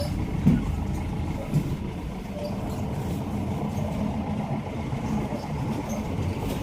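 A vehicle engine running steadily as it drives, a continuous low rumble.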